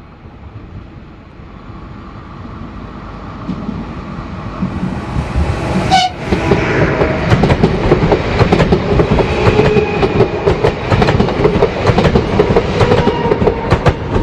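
A train approaching and then passing close by on a curved track, growing louder until the wheels clack rapidly over the rail joints.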